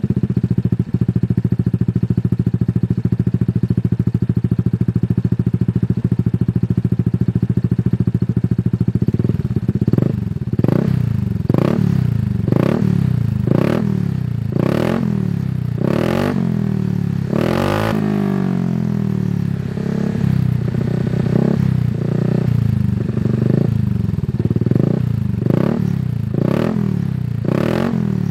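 An engine running steadily, then revved in short blips about once a second from about a third of the way in, with one longer, louder rev past the middle.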